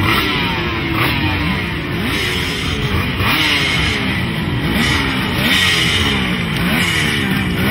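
Racing motorcycle engines revving hard and shifting through the gears, their pitch repeatedly climbing and then dropping, with several bikes overlapping.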